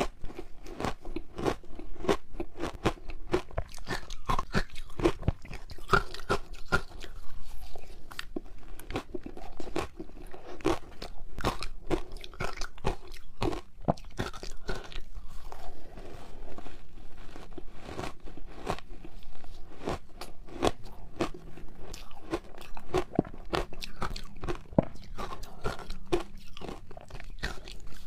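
Frozen matcha ice ball being bitten and chewed: many crisp cracks in quick, irregular succession as the ice is crunched between the teeth.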